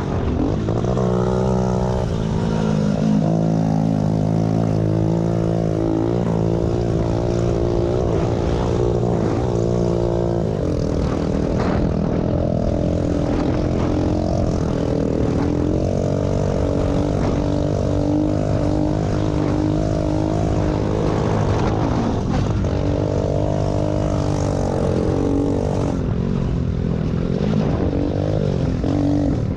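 Small pit bike engines running together in a race, a continuous buzzing drone whose pitch rises and falls as the riders work the throttle and shift.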